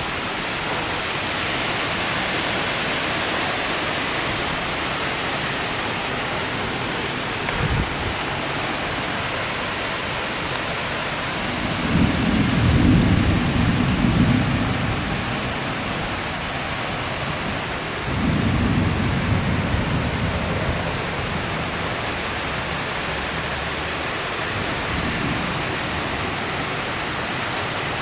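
Steady heavy rain in a severe thunderstorm, with rolls of thunder: a short one about eight seconds in, the loudest lasting about three seconds near the middle, another a few seconds later, and a faint one near the end.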